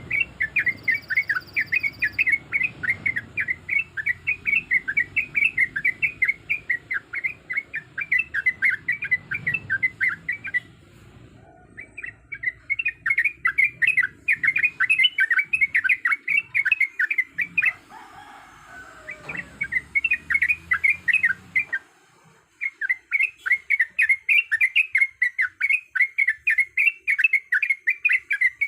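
Yellow-vented bulbul (trucuk) singing a fast rolling chatter of quickly repeated notes, in long runs broken by a few short pauses.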